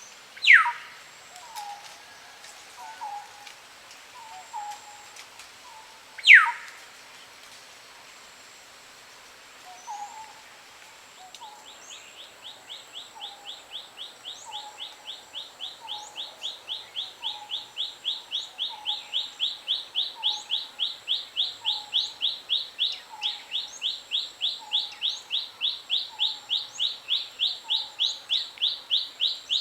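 Wild birds calling in tropical forest. Two loud, sharply falling whistles come about six seconds apart, with soft low notes repeating about once a second. From about a third of the way in, a fast, evenly pulsed high call starts and grows steadily louder.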